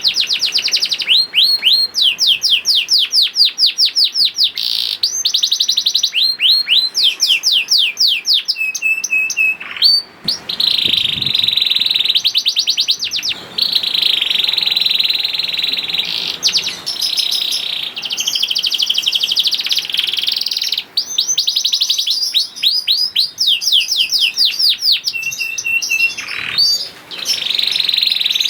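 A domestic canary sings a long unbroken song. It runs through fast trills of quick down-slurred notes, denser rolling passages and a few short level whistles.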